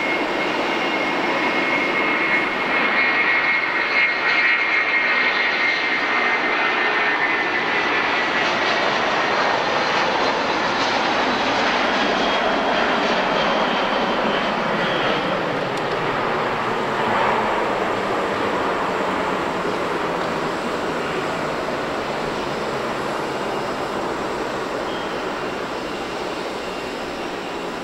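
An Airbus A330-223 taking off, its two Pratt & Whitney PW4168A turbofans at takeoff thrust: a dense jet noise with a high whine that slides down in pitch over the first ten seconds. It is loudest a few seconds in, then slowly fades as the aircraft draws away.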